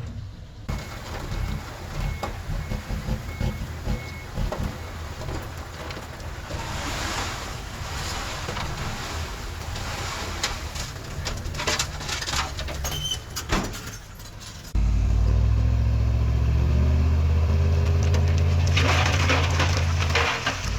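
Diesel engines of heavy earthmoving machinery running, with scattered clanks and rattles. About two-thirds of the way through, the sound jumps abruptly to a much louder, steady engine note.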